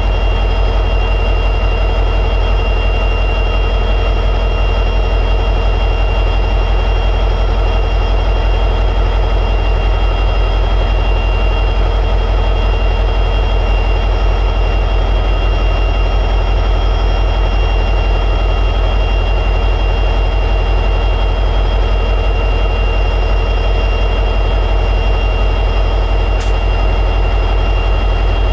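EMD 16-710G3B two-stroke diesel prime mover of an SD60E locomotive running steadily at high idle, a deep engine drone with a steady high whine above it.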